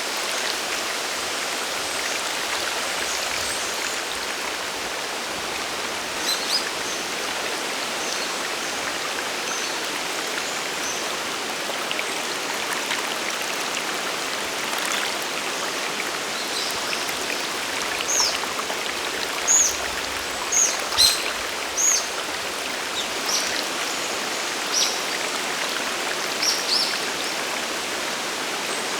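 Steady rush of water from the Sagiri Falls waterfall and its mountain stream. Short, high bird chirps break in now and then, most often in the second half.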